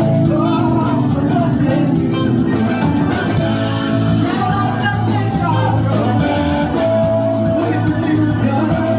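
Live blues-rock band playing: electric guitar and keyboards over bass and drums, loud and continuous. A lead line above the band holds one long note about seven seconds in.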